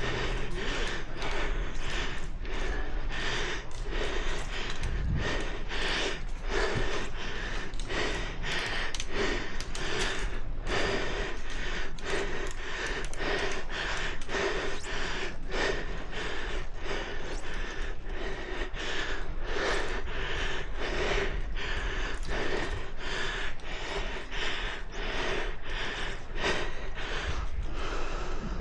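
Heavy, rapid breathing of a cyclist exerting himself, close to the microphone, about one to two breaths a second.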